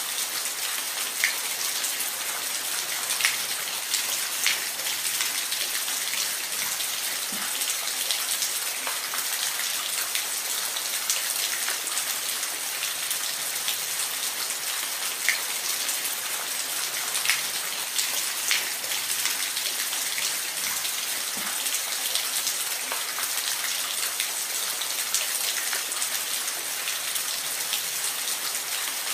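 Falling water making a steady hiss, with scattered sharp drip-like ticks on top.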